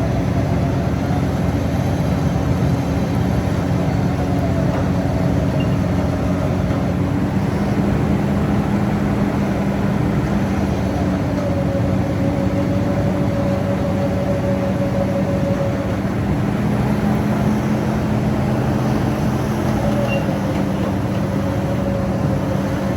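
Jeep Grand Cherokee WJ's 4.0 inline-six engine running steadily, with a fainter whining tone that slowly wavers in pitch.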